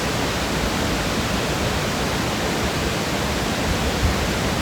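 Crystal Creek waterfall rushing, a steady, unbroken wash of falling water.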